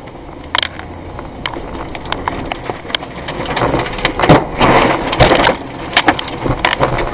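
Tornado wind blasting over the microphone in a noisy rush, with many sharp cracks and bangs of flying debris; it builds up and is loudest a little past the middle.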